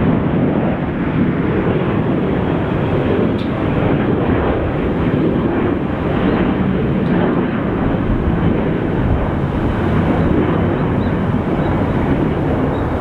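Jet airliner's engines and airflow making a loud, steady rushing roar during a takeoff.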